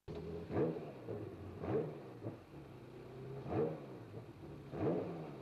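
Ferrari F355 Challenge's V8 idling and revved in four short throttle blips, each rising and falling in pitch.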